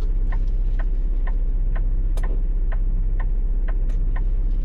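Semi truck's engine droning steadily, heard inside the cab, with a turn-signal relay clicking evenly about twice a second.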